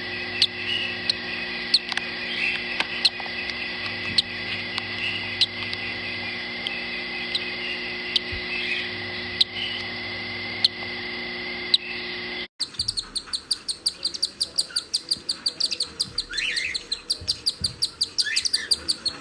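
Pet birds chirping in short, sharp calls over a steady hum. About two-thirds of the way through, the sound cuts abruptly to a rapid run of high chirps, four or five a second.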